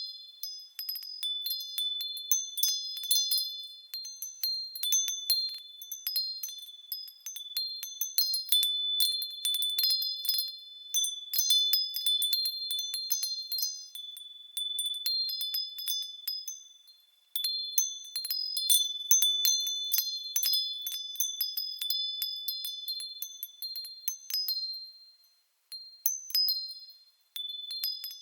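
A Japanese wind chime (furin) ringing as the wind swings it: irregular clusters of quick strikes, each ringing on in a clear, high tone with a few bright overtones. The chime falls silent briefly about two-thirds of the way in and again near the end.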